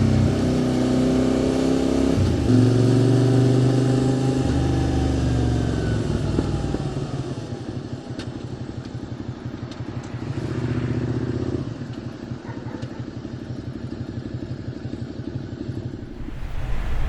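QJ Motor SVT650X's V-twin engine running through an Arrow Racetech exhaust, pulling steadily for the first several seconds, then easing off with the revs falling. It runs quieter after that, with a short burst of throttle about ten seconds in, and picks up again near the end.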